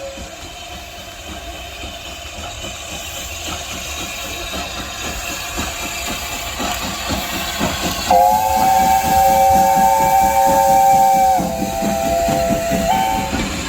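A steam locomotive approaching, its exhaust beats growing louder, then sounding a chord whistle of several notes about eight seconds in, held for about five seconds with a slight drop in pitch before it stops.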